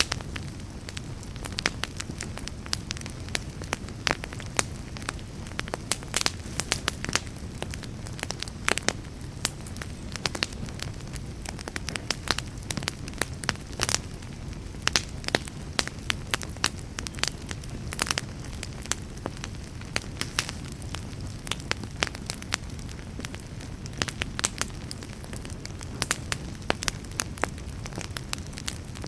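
Campfire burning with a steady low rumble and frequent sharp, irregular crackles and pops of burning wood, several a second.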